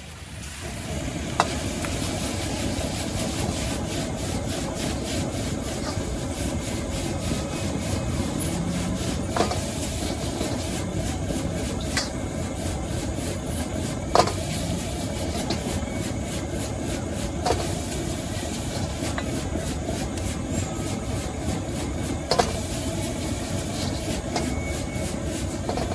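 Stir-frying in a wok over a high-flame gas burner: a steady roar and sizzle, with a few sharp clinks of the metal spatula striking the wok.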